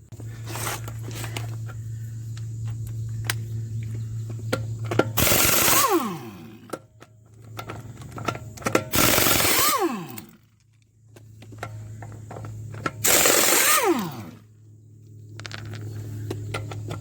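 Impact wrench zipping off lug nuts in four hammering bursts about four seconds apart, each followed by the motor winding down in falling pitch. A steady low hum runs underneath.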